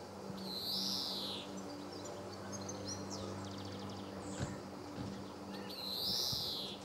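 European greenfinch calling: two drawn-out calls, each about a second long and rising then falling in pitch, about five seconds apart, with faint short chirps between them.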